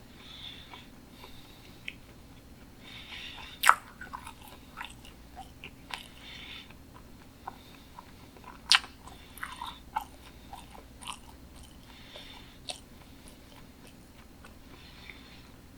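Close-miked chewing of sushi: soft, wet mouth sounds with a scatter of sharp lip-smacks and clicks, two of them much louder than the rest.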